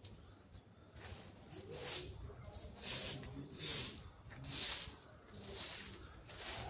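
Broom sweeping leaves across the ground in steady strokes, a swish about once a second.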